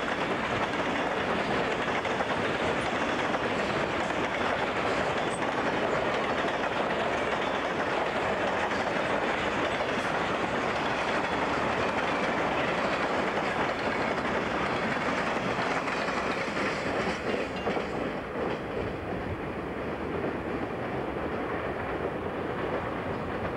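CSX freight train rolling past steadily on the rails, the sound easing a little near the end.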